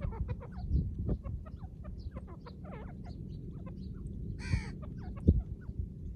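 Female francolin (white partridge) calling loudly in a rapid run of short chirping notes, several a second, with one harsh rasping burst about four and a half seconds in. A low rumble with a few thumps runs underneath.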